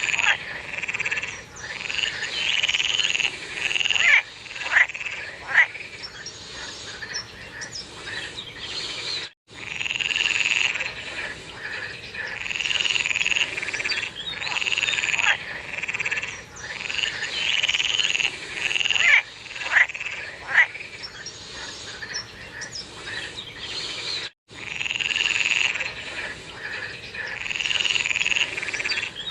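Frogs calling in a chorus, repeated croaking calls overlapping one another, with a few sharper clicking calls standing out. The sound cuts out briefly twice.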